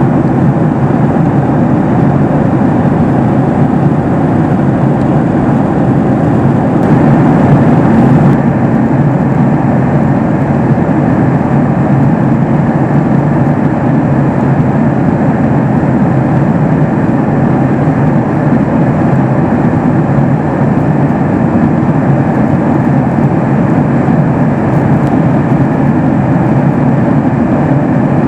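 Steady cabin noise inside a Boeing 737 MAX 8 in flight: the even drone of its CFM LEAP-1B engines and the airflow, swelling slightly about seven seconds in.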